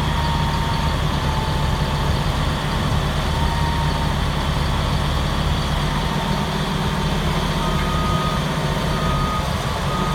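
Caterpillar D6R Series III dozer's diesel engine running steadily, with a faint high tone coming and going above it.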